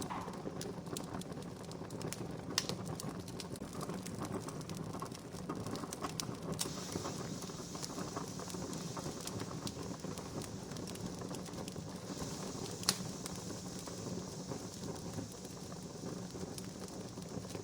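Wood campfire crackling steadily with small snaps throughout and two louder sharp pops, one early and one about three-quarters of the way in. A higher hiss joins about a third of the way in.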